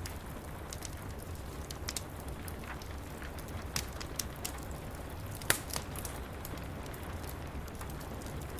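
Wood fire crackling in a fireplace, with scattered sharp pops, the loudest about five and a half seconds in, over a steady hiss of rain and a low rumble.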